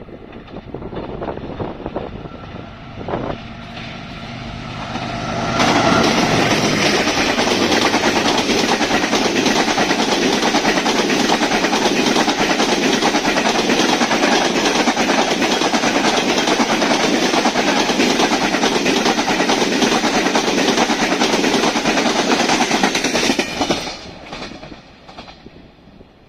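Passenger express hauled by a GEU40 diesel-electric locomotive passing through at full speed. The locomotive's engine grows louder as it approaches and goes by about five seconds in. Then the coaches' wheels rush over the track with a loud, steady noise for about eighteen seconds, which drops away quickly once the last coach has passed.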